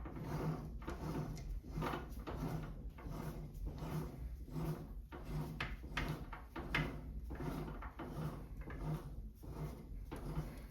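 Hand tap cutting threads in a metal part held in a lathe, turned in repeated strokes that come about one and a half times a second.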